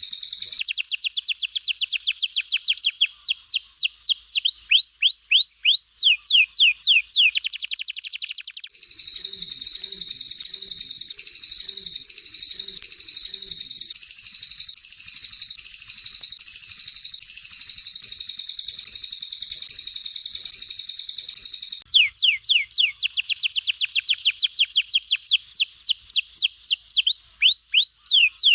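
Recorded canary and cililin song phrases ('tembakan') used as masteran for training songbirds. First comes a quick string of high descending whistled sweeps, then from about nine seconds a long unbroken high buzzing trill lasting some thirteen seconds, then the quick descending sweeps return near the end.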